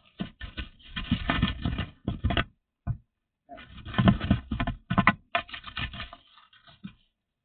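Irregular clicks, taps and rustling from things being handled close by, in two busy stretches with a short pause about three seconds in.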